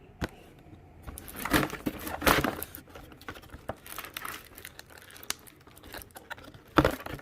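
Plastic packaging crinkling and rustling in bursts as fireworks packs are handled, with a sharp knock near the end.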